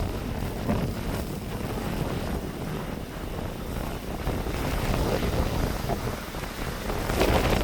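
Strong blizzard wind gusting against the microphone, a rough rumbling rush that swells and eases and grows loudest near the end.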